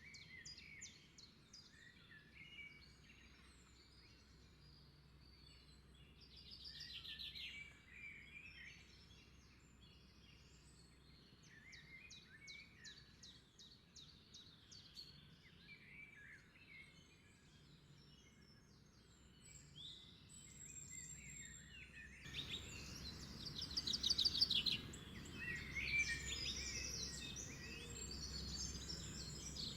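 Several songbirds chirping and trilling, with many short calls overlapping. About two-thirds of the way in, a low background noise steps up and the calls get louder and busier.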